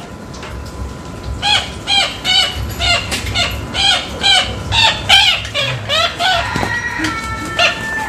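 Black-winged stilt held in the hand, calling over and over in short, sharp yelps, about three a second, starting about a second and a half in. The bird is described as very noisy.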